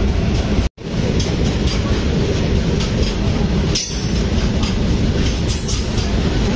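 Loud, steady rumble and clatter of train wheels on the rails, heard at an open passenger-coach window as a train of covered freight wagons passes close alongside. The sound cuts out completely for a split second about a second in.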